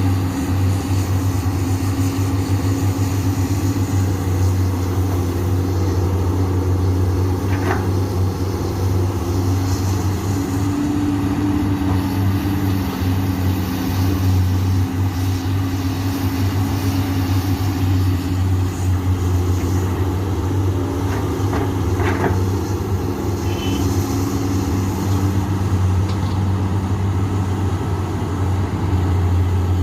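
Komatsu PC200 hydraulic excavator's diesel engine running steadily under working load, its pitch shifting slightly as the hydraulics are worked. A couple of short metallic knocks come about 8 seconds in and again around 22 seconds.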